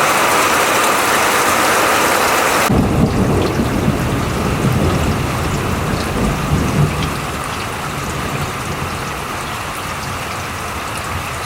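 Heavy downpour hissing; about three seconds in the sound changes abruptly to a deep rolling thunder rumble over the rain, which eases after a few seconds into steady rain.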